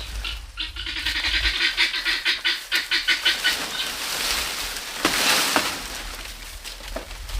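A farm bird calls in a rapid run of short, quacking-like notes for about three seconds, followed by a brief hissing rush of noise.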